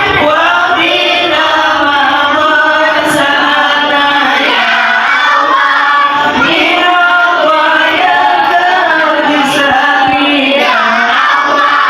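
A group of schoolchildren singing a sholawat together.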